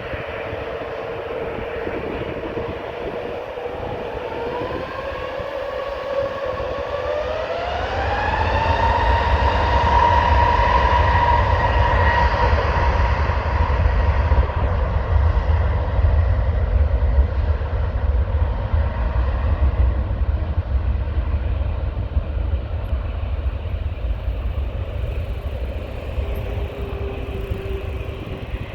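Jet airliner engines spooling up to takeoff power. A whine rises in pitch about five seconds in, then a deep takeoff-thrust rumble builds and holds, easing slightly toward the end.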